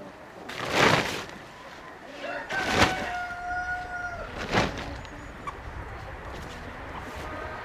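Domestic chickens with a rooster crowing: a few short, loud calls, and a crow held on one pitch for about a second and a half near the middle.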